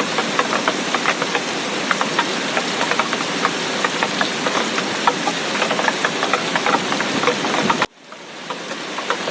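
Heavy tropical rain, a steady wash with a dense patter of large drops striking a surface. Near the end it cuts out abruptly and fades back up.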